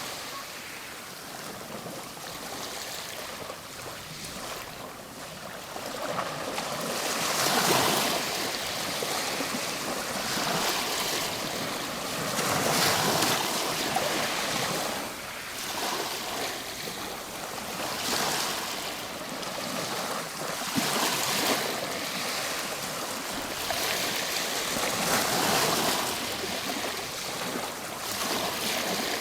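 Ocean waves breaking and washing on the shore, a steady surf that swells and eases every few seconds.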